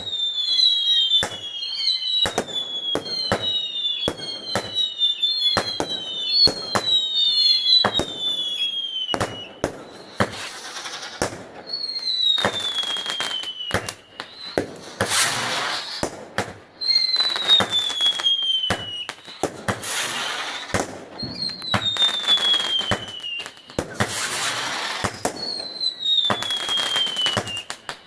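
Fireworks going off: a run of high whistles falling in pitch, about one a second at first and then every few seconds, among sharp bangs and stretches of crackling.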